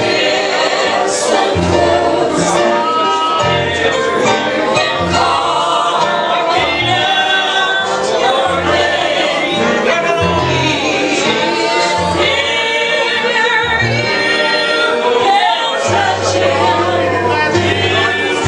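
Live gospel music: voices singing together over a band with a bass line moving about once a second.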